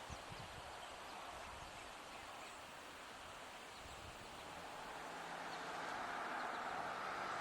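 Quiet outdoor ambience with a few faint bird chirps, then a vehicle approaching from about halfway in, its engine and road noise growing steadily louder.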